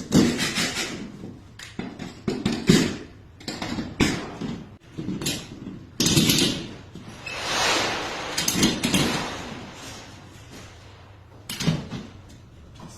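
A run of irregular knocks and clatters, some followed by short rushing noise, loudest in the first half.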